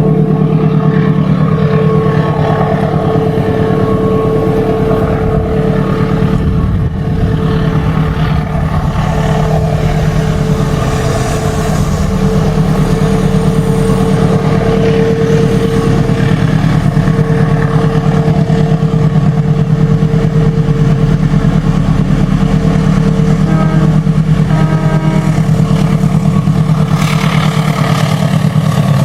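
Diesel locomotive engine running steadily with a deep, even drone, with a rise of higher-pitched noise near the end.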